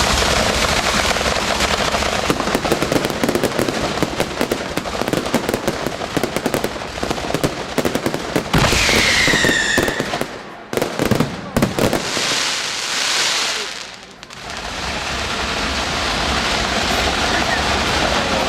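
Aerial fireworks going off: a dense run of rapid crackling, then a falling whistle, a few sharp bangs and a short hiss, followed by a steady rushing noise.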